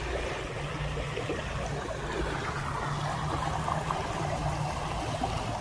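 A small stream babbling and trickling steadily.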